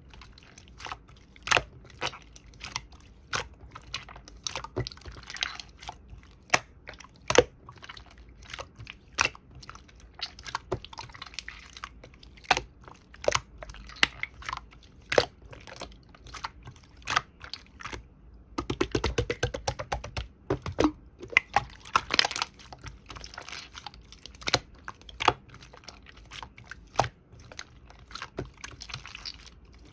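Slime being squished, stretched and poked by hand, giving off sharp, irregular clicks and pops as air pockets burst. About two-thirds of the way through there is a quick run of rapid clicks.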